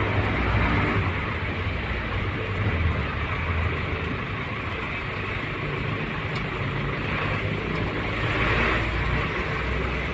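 Steady engine rumble and road noise of a moving vehicle, heard from inside the cab.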